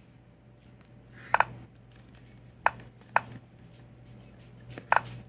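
A few short, sharp clicks at uneven intervals, two of them coming as quick doubles, over a faint steady hum.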